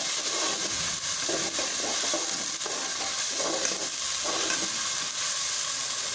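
Onion paste frying in butter and ghee with whole spices, sizzling steadily, while a steel spoon stirs it around a metal pot with several scraping strokes.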